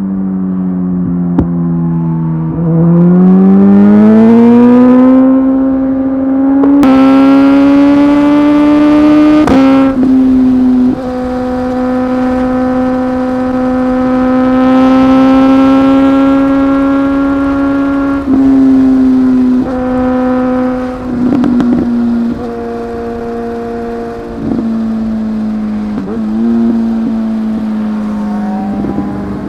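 Superbike inline-four engine pulling along at highway speed: the revs rise about three seconds in and then hold steady for long stretches. The note dips briefly several times in the second half as the throttle is eased or a gear is changed.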